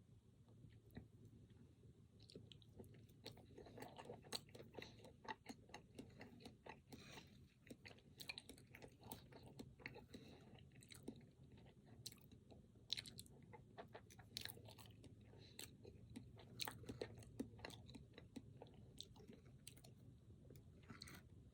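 Close-miked chewing of a chocolate-coated, cream-filled snack cake (a Pingüino): soft, irregular mouth clicks and smacks, several a second.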